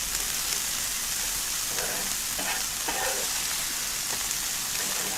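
Shrimp and vegetables sizzling steadily on an electric grill.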